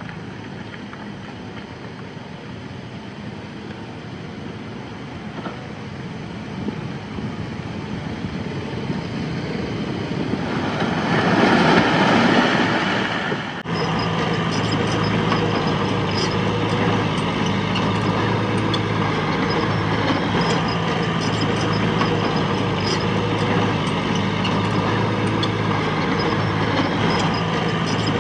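Diesel engine of heavy earthmoving machinery running. A louder rushing rumble builds about ten seconds in and cuts off suddenly near the middle, followed by a steady engine drone with light clicking.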